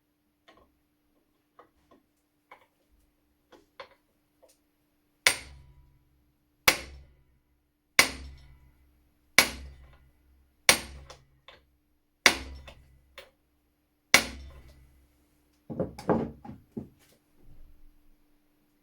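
Hammer blows, most likely an attempt to free a seized screw in the rusty gun. A few light taps come first, then seven hard, evenly spaced strikes about 1.4 seconds apart, then a quick flurry of smaller knocks near the end.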